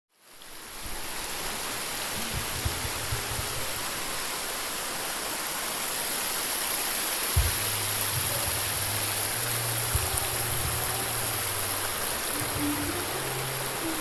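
Steady rush of flowing stream water, fading in over the first second, with background music's low notes changing in steps underneath.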